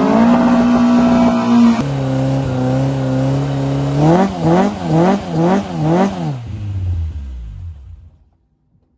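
A car engine runs at steady revs, then, after an abrupt cut about two seconds in, at a lower steady idle. From about four seconds in it is blipped five times in quick succession, about half a second apart, before dropping back and fading out near the end.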